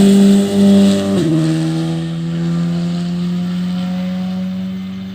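Rally car engine passing at speed: loud at first, its note drops sharply in pitch about a second in, then holds a lower steady note that slowly fades as it goes away.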